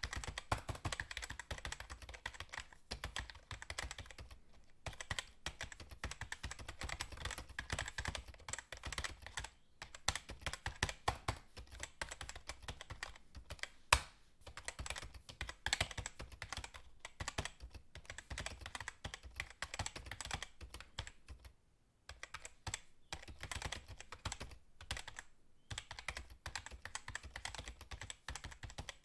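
Rapid, irregular light clicking and tapping that keeps up almost without a break, with one sharper, louder click about halfway through.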